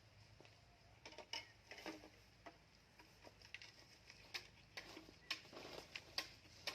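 Faint, irregular light clicks and short rustles, as of small objects or material being handled, starting about a second in.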